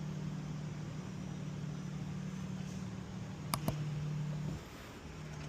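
A steady low mechanical hum that drops away briefly near the end and comes back, with two sharp clicks in quick succession a little past halfway.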